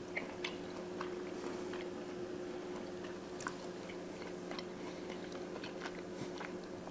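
A person quietly chewing a bite of grilled filet mignon steak, with faint, scattered mouth clicks over a low steady hum.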